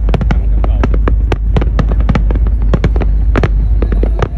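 Aerial fireworks going off in a rapid, irregular barrage, several sharp bangs a second, over a continuous low rumble.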